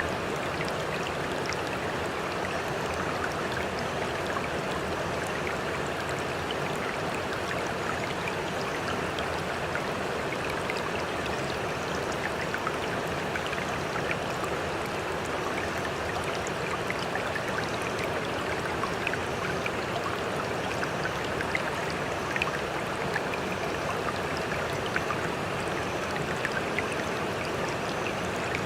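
Steady rushing, trickling water, with many small splashes and drips scattered through it.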